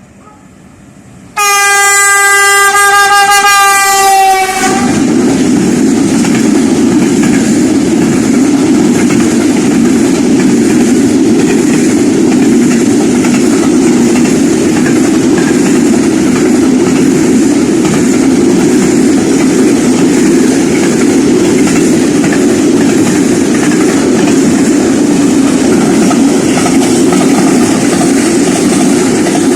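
A fast train passing close by: its locomotive's horn sounds one long note for about three seconds, then the train rushes past with a loud, steady roar of wheels on rail and clickety-clack.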